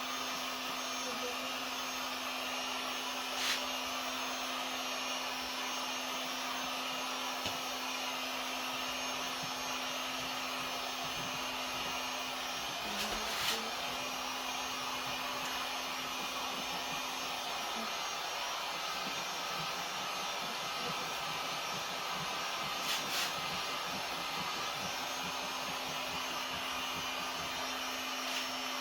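Heat gun running steadily with an even blowing noise and a hum, heating the headliner adhesive to activate it. A few brief clicks sound over it.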